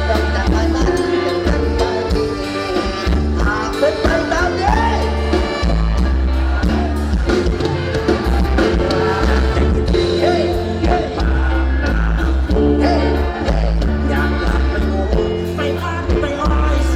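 Live band playing an Isan Thai song with heavy bass and a steady beat, while a singer carries the melody.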